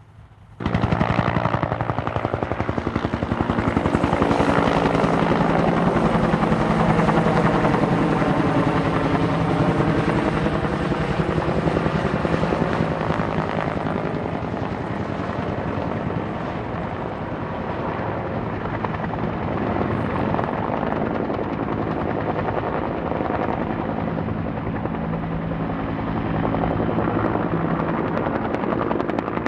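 Helicopter flying close, its rotor blades chopping steadily over the engine's whine. It cuts in abruptly about half a second in, and its pitch bends around the middle.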